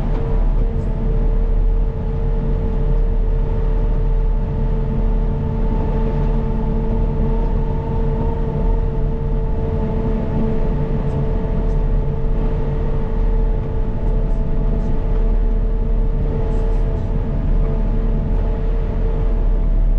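CAT 926M wheel loader's diesel engine running steadily under work, a deep low drone with a steady high whine over it.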